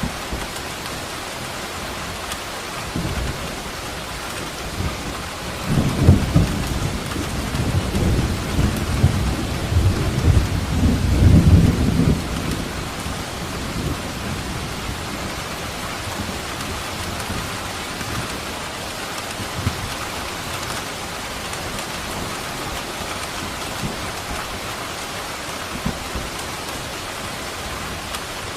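Steady heavy rain with a long rumble of thunder that swells a few seconds in, is loudest for several seconds, then fades away.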